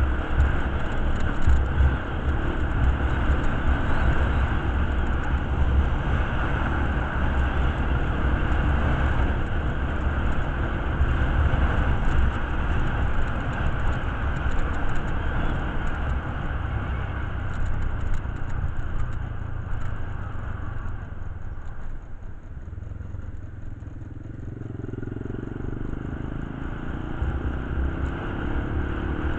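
Motorcycle engine running under steady load with road and wind rumble; the sound eases off about three-quarters of the way through, then the engine note climbs again near the end.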